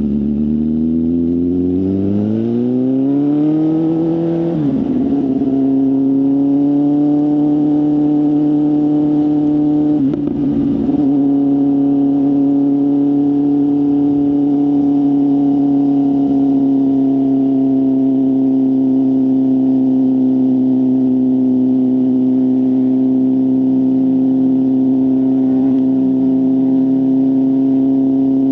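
BMW S1000RR inline-four sports bike with a full exhaust system, accelerating with a rising engine note for about four seconds, then a quick break in the sound as it shifts up. After another brief dip about ten seconds in, the engine holds a steady note while cruising.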